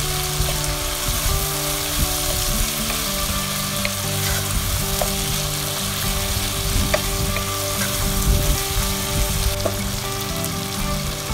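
Julienned carrot and capsicum frying with chicken in hot oil in a pan: a steady sizzle with a few light clicks of stirring.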